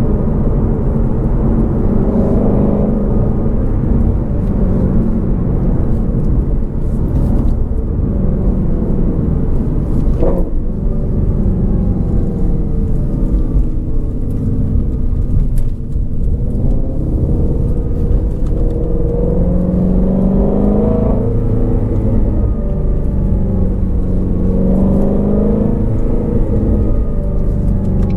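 2019 Shelby GT350R's 5.2-litre flat-plane-crank V8 running under way, its pitch rising and falling several times as it accelerates and eases off, with a couple of brief dips in loudness.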